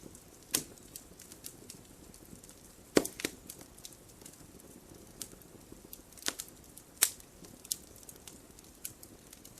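Wood fire burning in a fireplace: logs crackling with scattered sharp pops over a faint hiss. The loudest pops come about three seconds in and again about seven seconds in.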